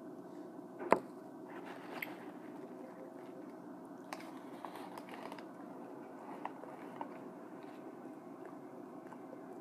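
A person chewing and biting food close to the microphone, with one sharp click about a second in and a few fainter clicks later.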